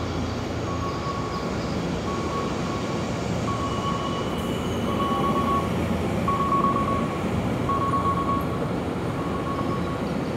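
An electric train running at a station platform, a steady rumble that swells in the middle, with a short high beep repeating about every second and a half over it.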